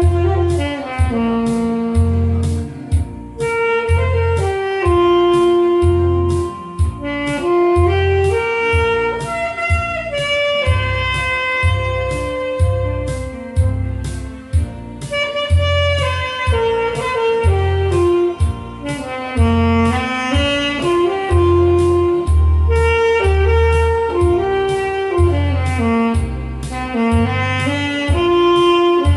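Saxophone playing a melody over a backing track with a steady bass beat.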